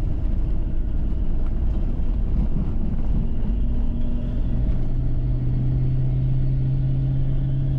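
Car driving on a rough, corrugated dirt road, heard from inside: a steady heavy rumble from the tyres and body, with a steady engine drone coming in about halfway through.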